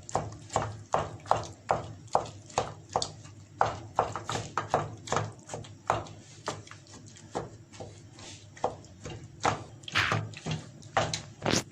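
Cooked pears being mashed in a cooking pot: the utensil knocks against the pot about three times a second, in a steady run of short knocks.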